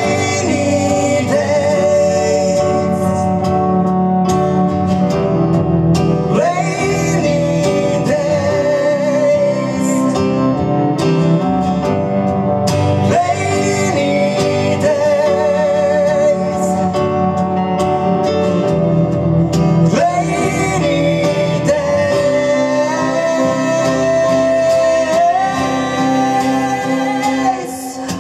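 Instrumental break in a band song: a lead melody with vibrato and upward slides about every six or seven seconds, over bass, drums and backing instruments.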